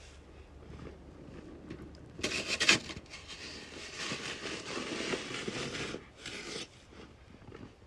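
Rough scraping and rubbing noises, loudest in a short burst a little over two seconds in and again at about six seconds.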